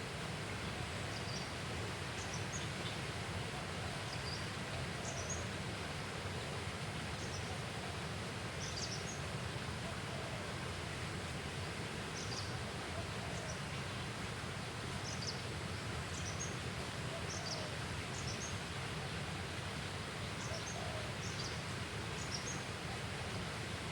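Outdoor riverside ambience: a steady even hiss with short, high bird chirps recurring about once a second.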